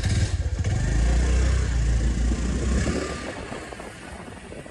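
Motorcycle engine running with a fast, even beat, louder for the first three seconds and then easing off.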